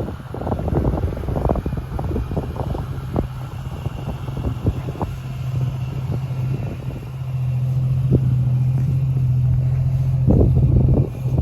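Jeep Cherokee XJ engine running with a steady low drone, with scattered knocks and rattles over it, bunched in the first half and again near the end.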